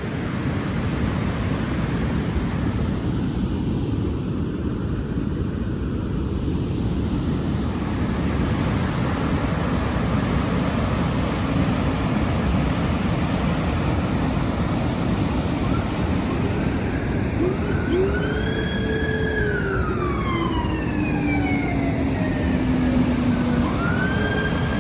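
Lake waterfall in flood, water pouring over it in a steady, heavy rush. About two thirds of the way in, a siren in the distance rises and then slowly falls in pitch over several seconds, and starts to rise again near the end.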